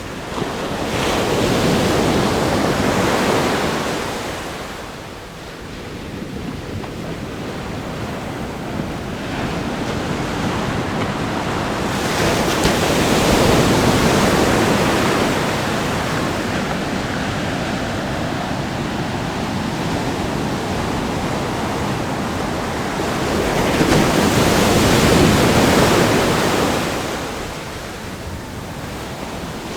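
Ocean waves breaking on a rock groin and washing up a sandy beach: a steady surf wash with three big breakers, about a second in, near the middle and near the end, each swelling and then easing off.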